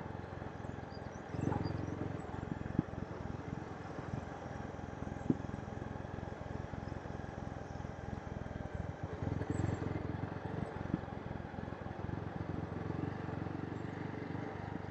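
Motorcycle riding downhill, a steady rumble of the moving bike with wind buffeting the microphone. Two short sharp knocks, about three and five seconds in.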